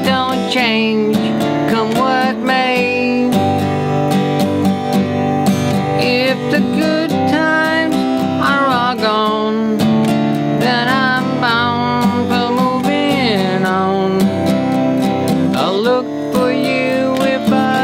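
Instrumental break of a country-folk song: acoustic guitar strumming steadily under a lead melody whose notes bend and slide in pitch.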